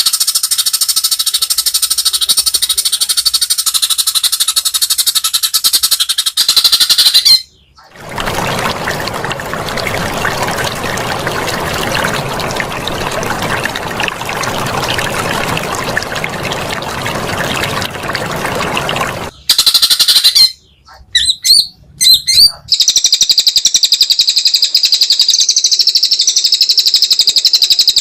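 White-rumped shama (murai batu) singing in fast, dense high-pitched trills. About eight seconds in, an even rushing hiss takes over for some eleven seconds; it is followed by a few short broken phrases before the rapid high song resumes.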